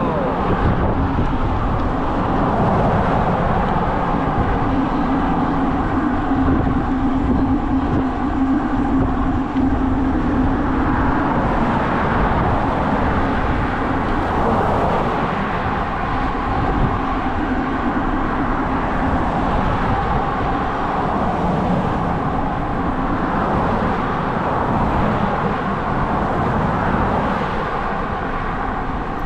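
Steady rushing noise of a bicycle ride downhill: wind over the microphone mixed with tyre rumble on the road.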